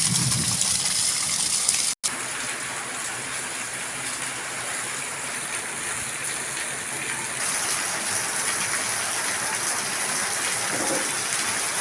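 Heavy monsoon downpour: a steady rush of rain falling on water and the ground. The sound breaks off for an instant about two seconds in, then carries on.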